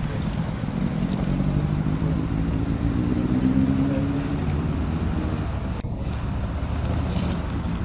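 Engine running steadily, its pitch rising slightly a couple of seconds in and then settling back.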